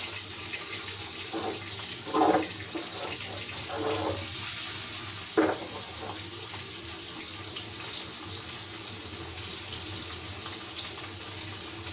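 Water running steadily from a tap into a sink, with a few short clatters about two, four and five and a half seconds in.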